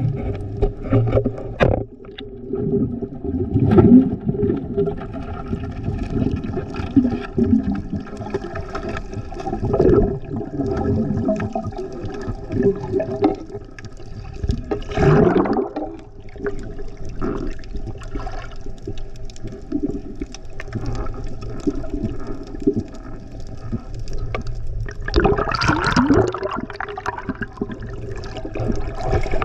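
Water sloshing and gurgling, swelling louder several times, with a faint steady hum underneath.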